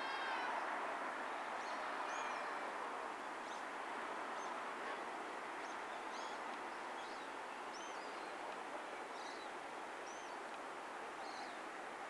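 Small wild birds giving short, high chirps about once a second over a steady background hiss, with a drawn-out pitched sound fading out at the very start.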